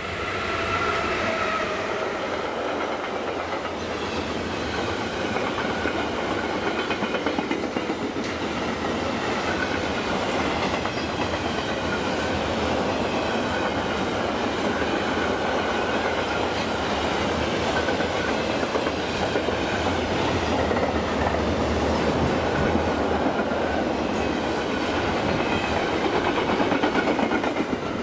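Freight train passing at close range: a DB class 185 electric locomotive goes by first, then a long rake of empty double-deck car-transporter wagons rolls past. The wheels on the rails make a steady, dense rolling noise with wheel clacks.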